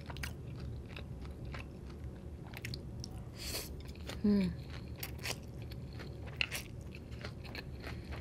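Close-miked mouth sounds of eating stir-fried egg noodles: soft wet chewing clicks throughout, a slurp of noodles about three and a half seconds in, and a short hum just after it.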